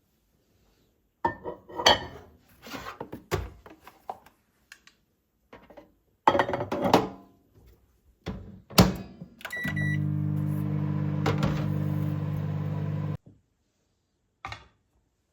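Kitchen clatter of knocks and thunks, then a microwave oven door shutting and a short button beep. The oven starts running with a steady low hum, which cuts off suddenly about three seconds later.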